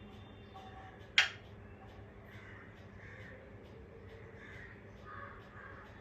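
A pet parrot gives one short, sharp, loud screech about a second in, with faint softer sounds around it.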